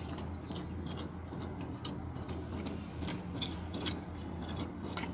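A person chewing a mouthful of burger: irregular soft mouth clicks, over a steady low hum.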